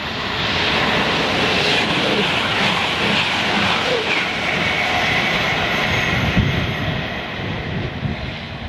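East Midlands Trains Class 222 Meridian diesel multiple unit passing through the station at speed: a loud rush of wheels on rail and moving air that builds in the first second, holds, and eases off near the end.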